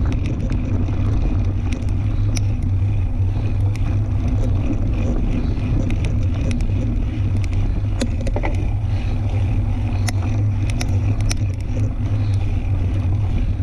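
Wind buffeting the microphone on a moving fat-tire tandem mountain bike, a steady low rumble, with scattered sharp clicks and rattles from the bike on the dirt trail.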